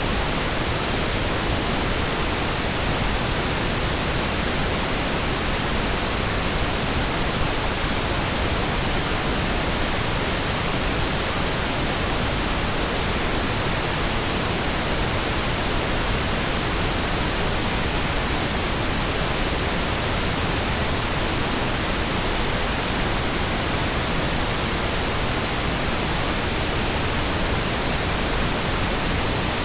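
Synthetic pink noise: a smooth, even hiss spread across all pitches, steady and unchanging.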